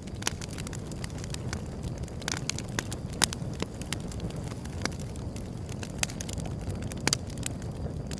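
Wood fire burning, a steady low rush of flames with irregular sharp crackles and pops of burning wood; the loudest pop comes a little over three seconds in.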